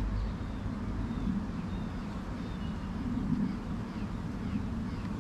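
Steady buzzing hum of a mass of honeybees at a newly filled hive, swelling slightly about three seconds in, with faint bird chirps above it.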